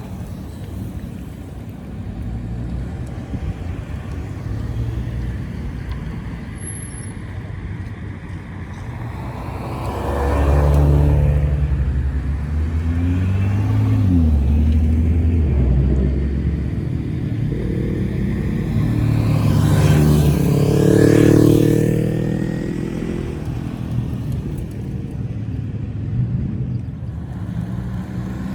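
Custom VIP-style cars with aftermarket exhausts driving past one after another, engines running with a steady rumble and changing pitch as they go by. Two cars pass loudest, about ten seconds and about twenty seconds in.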